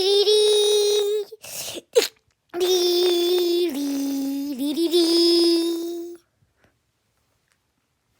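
A man's voice singing a melody of long, held wordless notes in place of a soundtrack. The notes break off about a second in for a short breathy hiss and a sharp click, resume about two and a half seconds in, and stop about six seconds in.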